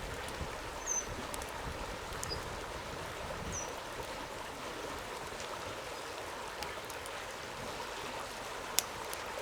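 Steady rushing of flowing water, like a stream, with a few sharp clicks and several brief high chirps in the first few seconds.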